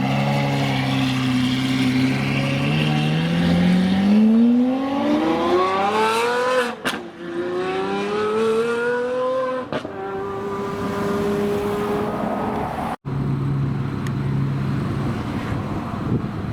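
Supercar engine pulling away hard: the revs climb steadily, drop sharply at an upshift about seven seconds in, climb again and drop at a second upshift about ten seconds in, then hold a steady note. After a sudden break near the end, a lower steady engine note.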